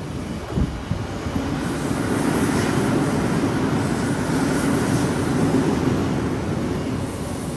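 Odakyu express train running through the station without stopping. Wheels on rail and running noise make a steady rush that builds over the first two seconds and stays loud, with a sharp knock about half a second in.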